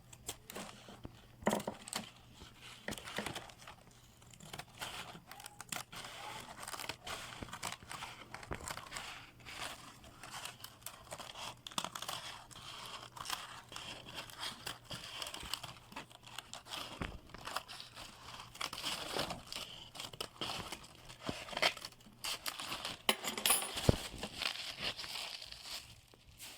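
Crepe paper crinkling and rustling as it is cut and handled, with many irregular clicks and snips.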